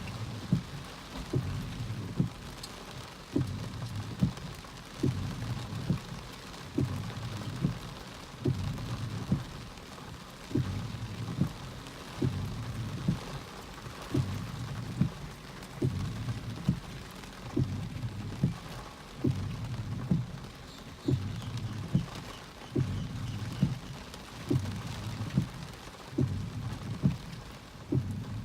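Rain, with a regular low thump a little more than once a second.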